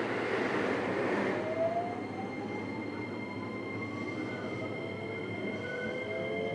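JR West 321 series electric train heard from aboard motor car KuMoHa 321-6, running along the track with steady rolling noise. A steady high whine sits over it, and thin tones from the traction motors rise in pitch about a second and a half in and again near the end.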